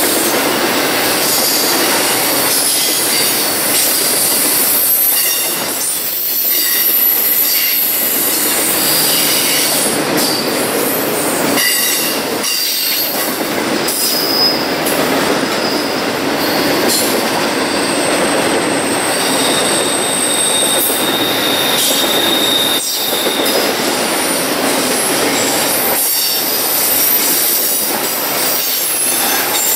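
BNSF intermodal freight train's cars rolling steadily past, with high-pitched wheel squeals that come and go; the longest squeal is heard a little past the middle.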